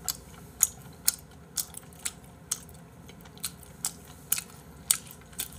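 A person chewing food close to the microphone: short, crisp mouth clicks and smacks about twice a second over a low room hum.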